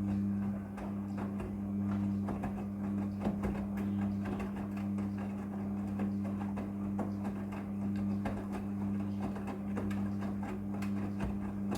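Midea front-loading washing machine running a wash cycle: a steady motor hum with many small clicks and knocks throughout.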